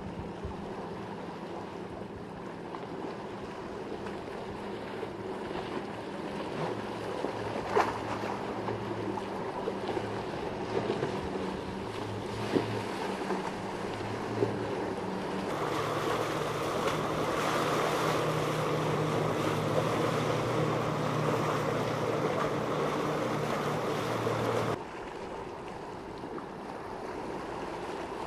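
Boat engines running through a rough inlet, over the wash of waves and wind. About halfway through the engines suddenly get louder and stronger, then drop back abruptly near the end; a few sharp slaps or knocks stand out.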